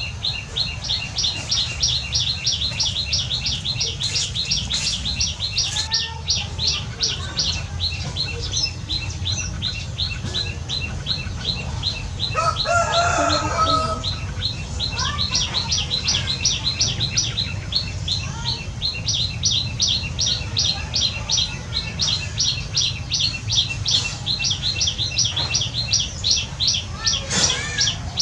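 A bird chirping quickly and evenly, about five high chirps a second, with a brief break around the middle, when a louder cry with several pitches rises over a steady low hum.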